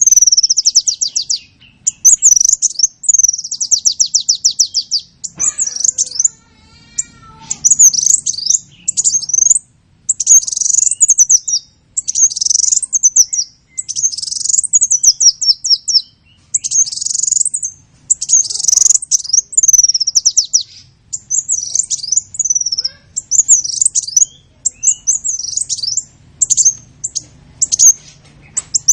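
A small bird singing: a near-continuous run of high, quick chirps and rapid trills with only brief pauses.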